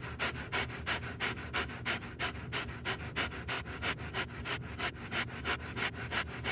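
A dog panting quickly and steadily, about five breaths a second.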